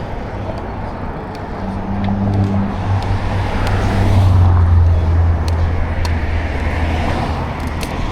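Steady rush of wind and riding noise from a bike on the move. A motor vehicle's low engine hum swells about two seconds in, is loudest around the middle, and fades near the end, as a car passes.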